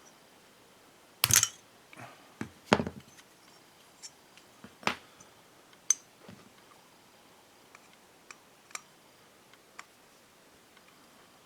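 Small metal carburetor parts and hand tools being handled and set down on a work surface during disassembly: irregular clicks and knocks, the loudest few between about one and six seconds in, then lighter ticks.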